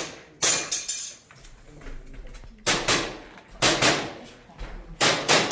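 Airsoft gun fired in quick pairs, four pairs of sharp cracks with a metallic clatter, spaced a second or more apart.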